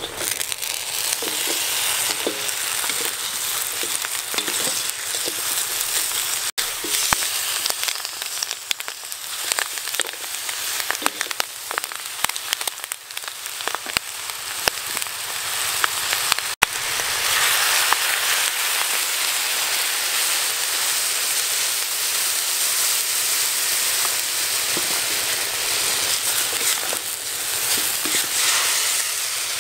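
Chicken feet frying in hot oil in a wok, a loud steady sizzle full of crackling and spitting, with a wooden spatula stirring them.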